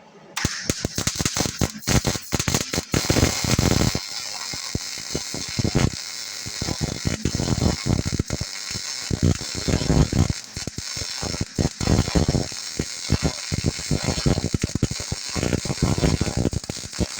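Wire-feed welder arc crackling and sputtering while laying a root pass, starting about half a second in, with a couple of brief stops and restarts.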